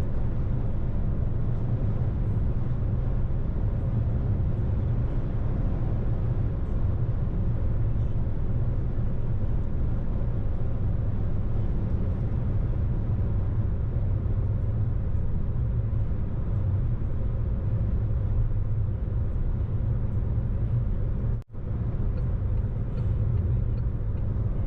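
Steady low rumble of a car driving on the road, engine and tyre noise without change, cut off for a split second about three-quarters of the way through.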